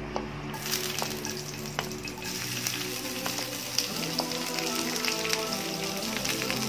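Sliced onions dropping into hot oil in a cast-iron skillet and sizzling, the sizzle setting in about half a second in and running on steadily, with scattered clicks from the wooden spatula scraping them off the bowl.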